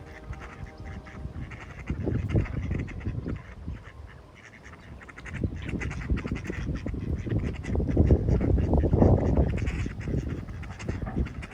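Waterfowl calling, a run of quacks and honks, loudest about eight to ten seconds in.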